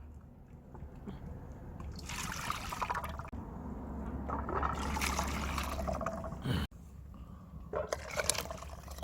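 Hot beef-bone broth being poured into a pot. The splashing swells for several seconds and stops abruptly about six and a half seconds in, with a few shorter splashes near the end.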